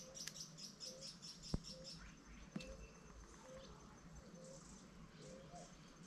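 Faint birdsong: a fast run of high chirps that stops about two seconds in, over short low calls repeating every half second or so. One sharp tap about a second and a half in.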